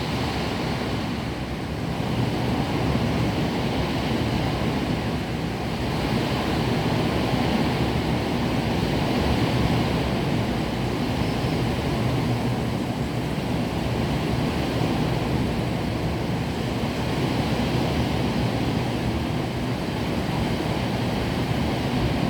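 Heavy rain falling in a strong wind: a steady rushing that swells slightly now and then.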